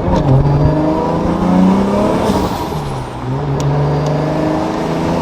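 Car engine running while being driven. Its note climbs and then falls back twice, as the car accelerates and the revs drop, heard from inside the car.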